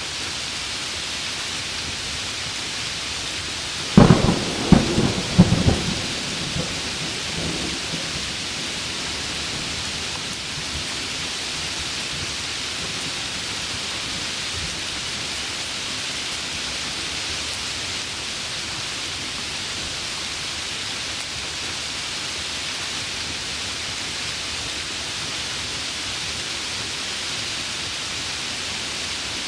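Heavy rain falling steadily, with a close thunderclap about four seconds in: several sharp cracks over two seconds that rumble away.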